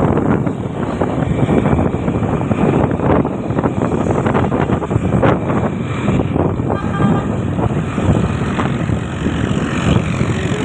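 Steady vehicle noise heard from a moving motorcycle, with wind buffeting the microphone.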